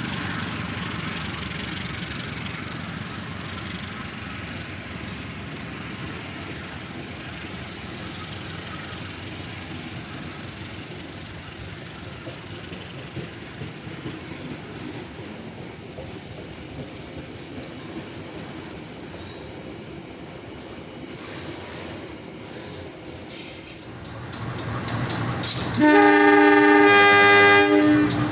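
Train rumble slowly fading, then an approaching train's wheels clattering over rail joints, the clicks coming faster and louder. Near the end a locomotive horn sounds one loud, steady blast lasting about two seconds.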